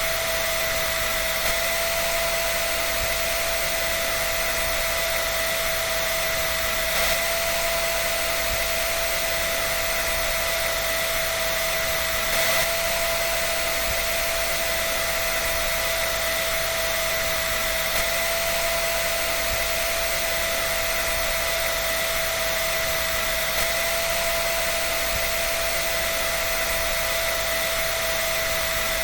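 Electric hair dryer running steadily: a constant rush of air with a steady motor whine, unchanging throughout.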